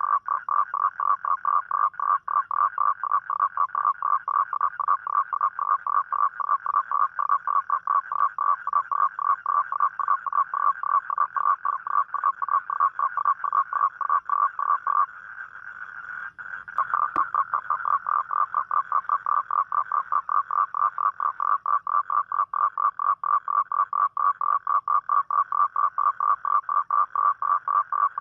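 A toad calling: a long, fast trill of even pulses, about five a second. About halfway through it fades out for a second or two, then starts again.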